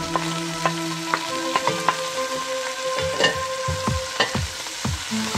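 Fish cutlets frying in hot oil, a steady sizzle broken by sharp clicks of a utensil stirring and tapping in the pan, over background music.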